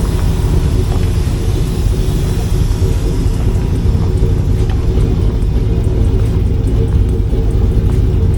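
Semi truck's diesel engine running steadily with a deep, even rumble.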